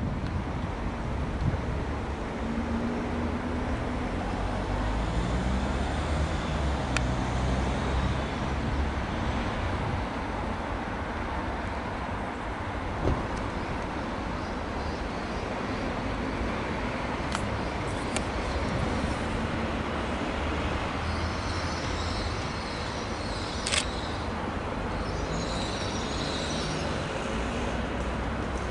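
Great Western Railway Intercity Express Train running slowly into the station: a steady low rumble with a few sharp clicks over the pointwork, and a high-pitched wheel squeal on the curve from a little past two-thirds of the way through.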